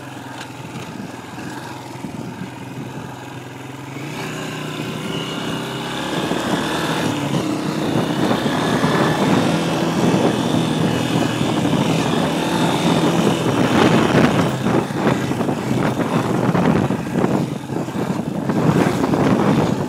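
Dirt bike engine running steadily at first, then louder and busier from about four seconds in as the bike rides, with the noise building toward the end.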